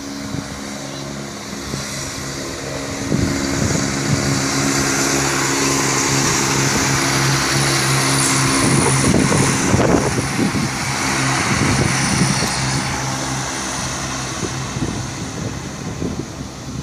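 A train running through the station: a steady engine or traction hum with a rushing noise on top. It swells from about three seconds in and eases off in the last few seconds.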